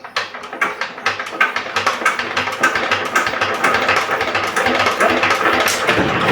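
A 20 hp horizontal single-cylinder diesel engine being turned over with its starting crank handle, giving a rapid, even mechanical clatter. It has never run before and is not yet firing on its own.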